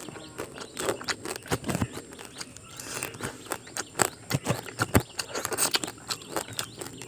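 Close-up eating sounds: chewing and crunching boiled crab with rice eaten by hand, a rapid irregular run of wet clicks and crackles.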